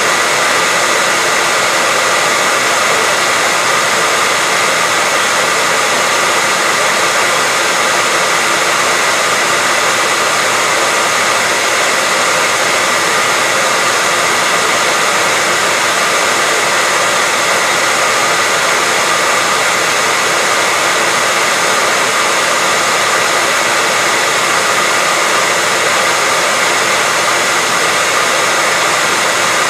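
Hair dryer running steadily, a constant whooshing rush of air with a faint steady whine in it, used as white noise to lull a baby to sleep.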